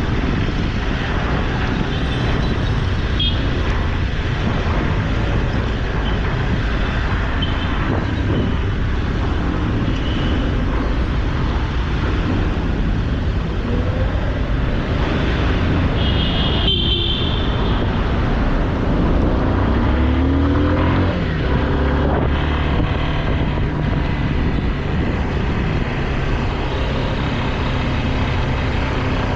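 Road vehicle on the move in traffic: steady engine and road noise, with a rising engine note about two-thirds of the way through.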